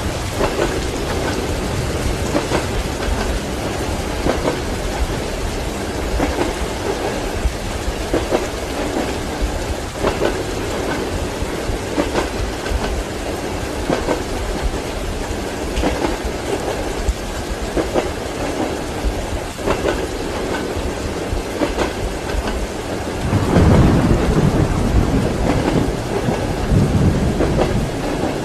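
Steady rain with a train's wheels knocking over rail joints, a clack about every two seconds. A low rumble of thunder swells about 23 seconds in and is the loudest part.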